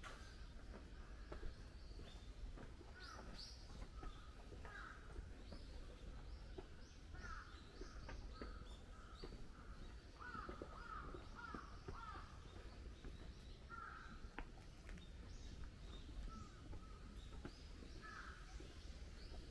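Birds calling in short, repeated calls, scattered throughout and busiest around ten to twelve seconds in, over a faint steady low background.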